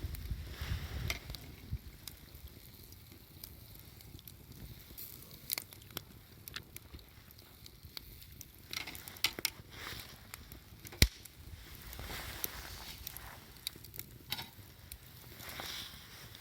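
Wood campfire crackling, with scattered irregular pops over a faint hiss and one sharper pop about eleven seconds in.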